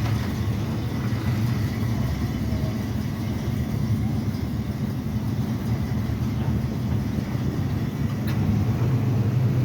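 A car engine running at idle with a steady low rumble that grows louder near the end.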